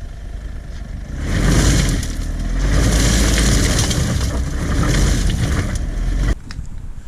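Mitsubishi Delica D5 driving hard, engine revving with a loud rushing noise that swells about a second in and cuts off suddenly near the end.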